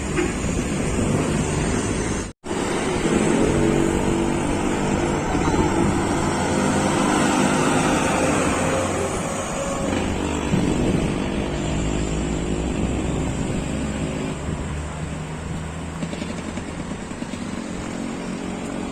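Truck engine running steadily with road and traffic noise, cut off for an instant about two seconds in.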